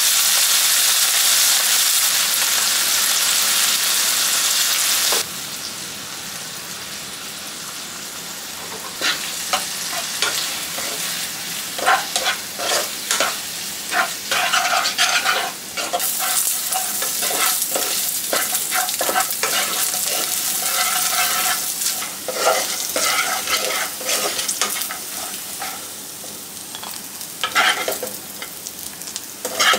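Chicken pieces frying in oil in a nonstick pan, a loud sizzle for the first five seconds, then a quieter sizzle under the clatter and scraping of a wooden spatula stirring them. Near the end a metal spoon knocks against the pan as the pieces are scooped out.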